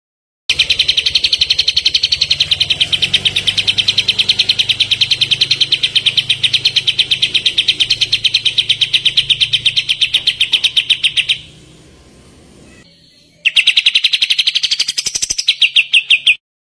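Kapas tembak songbird giving its rapid machine-gun 'tembakan' trill, a long, even string of fast, high notes. It breaks off for about two seconds, starts again, climbs in pitch, and ends with a few slower, louder notes.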